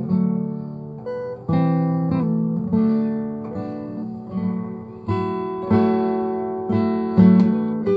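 Acoustic guitar strummed, one chord every second or so, each ringing and fading before the next.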